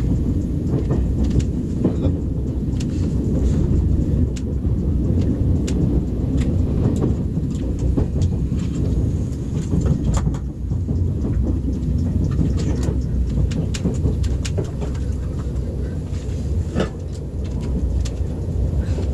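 TGV high-speed train heard from inside the carriage as it runs along the track: a steady low rumble with light clicks and ticks scattered irregularly through it.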